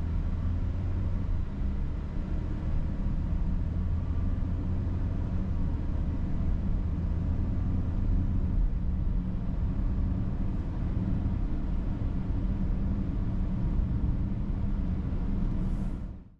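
Steady low rumble of engine and road noise heard inside the cabin of a 2022 Volkswagen Atlas on the move. It fades out near the end.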